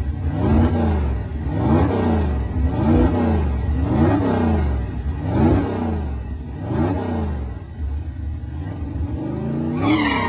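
Car engine revved up and down over and over, just over once a second, about eight times, with a high squeal near the end.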